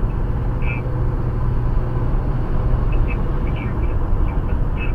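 Steady road and engine rumble inside a Toyota RAV4's cabin while it drives at highway speed. A few faint, short high-pitched blips come and go over it.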